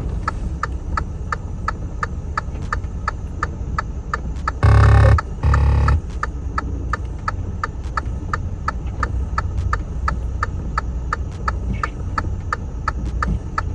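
Steady ticking of a flasher relay, about two or three clicks a second, over a low rumble; about five seconds in, two loud horn blasts, each about half a second long. The ticking is typical of hazard lights running on a broken-down truck.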